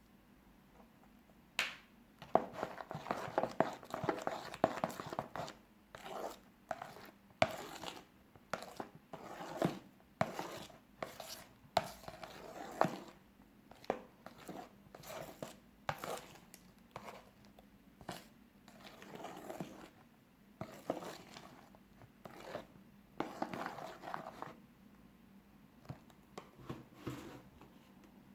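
Fluffy slime mixture of glue and shaving foam being stirred and worked in a bowl: irregular scraping and squishing strokes with a few sharp clicks. It starts about two seconds in and dies away shortly before the end.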